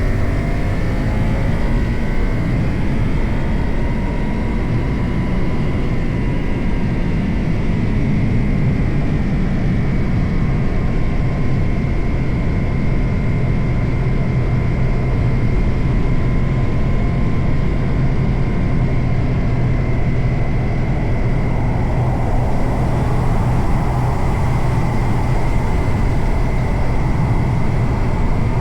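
Suzuki GSX-8R's parallel-twin engine running while the motorcycle is ridden, heard with wind and road noise. The engine note shifts in pitch during the first few seconds, then holds steady at cruising revs.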